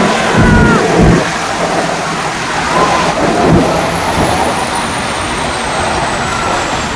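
Ooty mountain railway train running along the track: a steady, loud rumble and rush of noise from the moving carriage, with a few faint short squeals.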